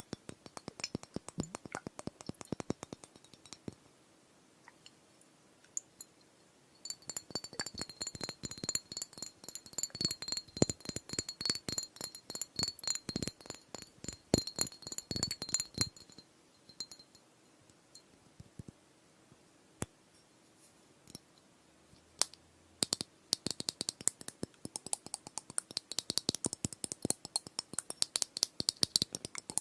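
Glass ice globes tapped and clinked in fast runs of light taps, separated by pauses of a few seconds. In the middle run the glass rings with a clear high tone over the tapping.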